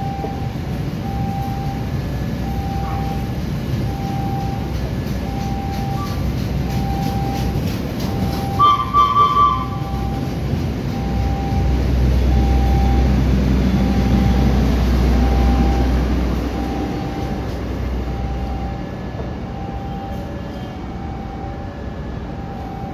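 Long-distance passenger train running past along the platform: a steady rumble of wheels on rail that grows heavier in the middle and eases as the last carriages go by. A short, even ding repeats about once a second throughout, and a brief three-pulse tone sounds about nine seconds in.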